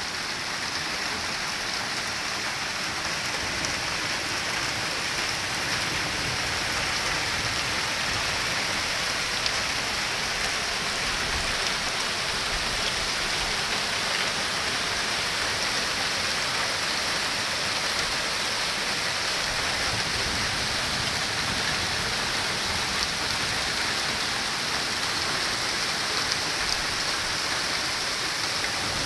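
Heavy rain mixed with hail pelting down: a dense, steady hiss with a few sharper ticks.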